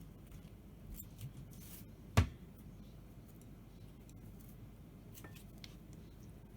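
Scattered small clicks and taps in a quiet room, with one sharp, loud knock about two seconds in.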